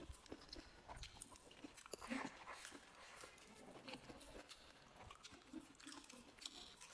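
A person chewing a mouthful of rice and meat, with small wet mouth clicks and smacks, faint and close to the microphone.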